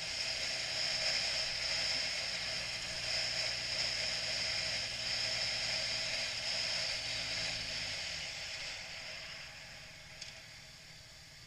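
A motorcycle engine running steadily; about eight seconds in it stops or moves off and the sound fades away, leaving a faint hiss.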